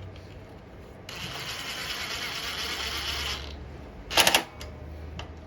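Ratchet wrench clicking in a quick run for about two seconds while tightening the carburetor's mounting bolts, then a single loud sharp clack about four seconds in.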